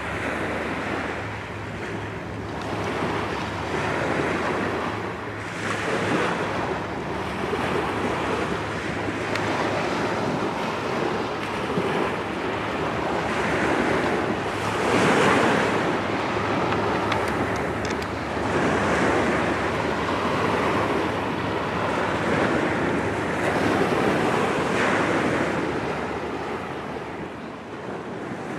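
Small waves washing on the shore while wind buffets the microphone, the noise swelling and easing every few seconds, with a steady low hum underneath.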